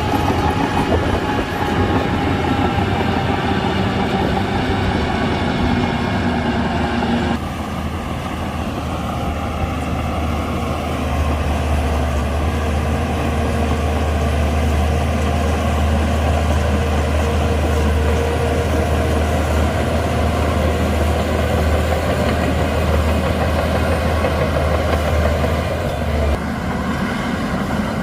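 Shantui DH17C2 crawler bulldozer working: its diesel engine runs under load and its steel tracks move. The sound changes abruptly about seven seconds in, and from about eleven seconds the low engine note grows louder and stays strong until shortly before the end.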